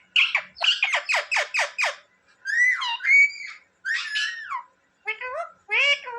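Indian ringneck parakeet calling: a quick run of sharp chattering calls, then a few longer wavering calls, then another quick run near the end.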